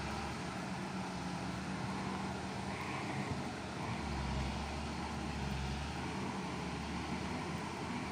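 Heavy truck's diesel engine running steadily, a low drone that holds an even pitch.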